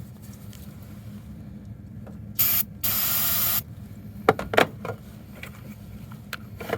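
Aerosol can of ether starting fluid sprayed in two bursts, a short squirt and then a longer one, as a cold-start aid for a diesel engine that will not start in the cold without it. A couple of sharp knocks follow, over a steady low hum.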